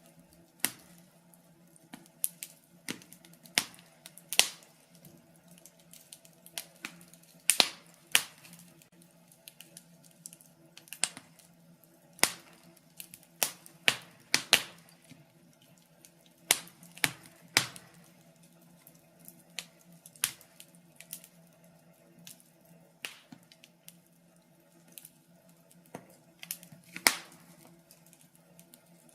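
Wood fire crackling in a fireplace: irregular sharp pops and snaps, some in quick clusters, over a faint steady hum.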